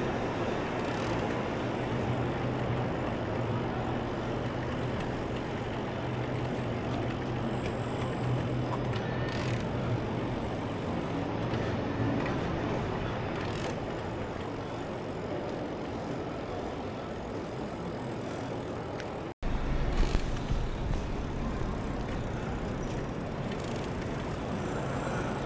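Street ambience recorded from a moving bicycle: a steady hiss of traffic and riding noise with a low vehicle hum. The sound cuts out for an instant about 19 seconds in, and a louder low rumble follows.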